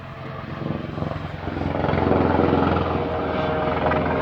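Police helicopter flying close overhead, its rotor chop rising in loudness over the first two seconds and then staying loud.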